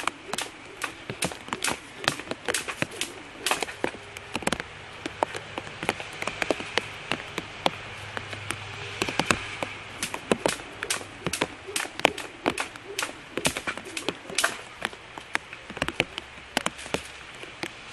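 Rain falling as a steady hiss, with many sharp taps and slaps, several a second and unevenly spaced.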